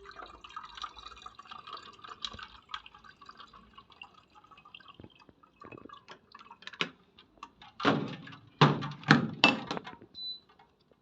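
Water pouring into a water dispenser: a steady trickling pour for the first few seconds, then several louder splashes about eight to nine and a half seconds in.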